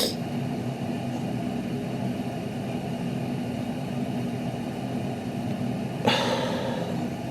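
Steady low mechanical hum of room background, with a short breath about six seconds in.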